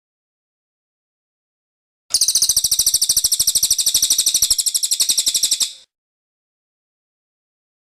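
Cililin bird singing: one rapid, high-pitched trill of evenly spaced chirps. It starts about two seconds in and lasts about three and a half seconds, with silence before and after it.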